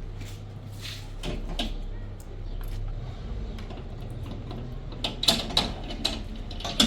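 A few sharp knocks about a second in, then a quick run of louder knocks and clacks near the end, over a steady low rumble.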